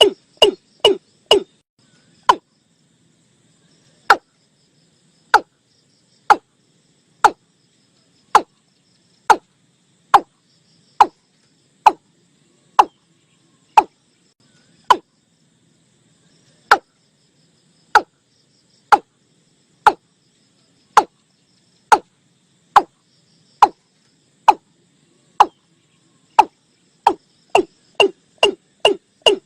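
Watercock (Gallicrex cinerea) calling with a series of short, sharp notes. The notes come about three a second for the first second or so, slow to about one a second, and speed up again near the end. This is a recorded call of the kind played as a trapping lure. A faint insect trill sounds underneath.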